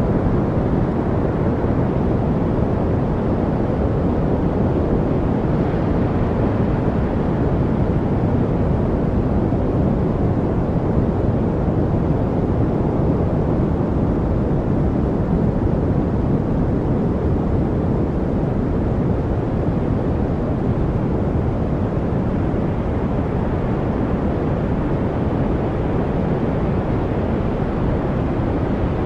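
Steady noise-masking track: an even, deep rushing hiss, strongest in the low range with little treble, holding level without change.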